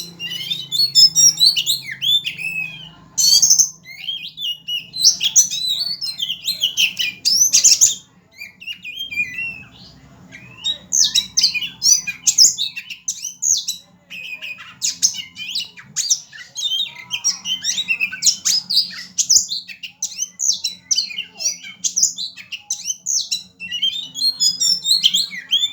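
A caged songbird singing a fast, varied, high-pitched song of chirps, trills and harsh squawky notes in an aggressive 'fighting' style, with a couple of short pauses.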